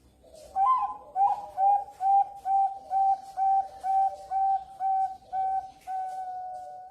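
Female zebra dove (perkutut bangkok) cooing: a run of about a dozen short, clear notes at a steady pitch, about two a second, closing on one longer held note.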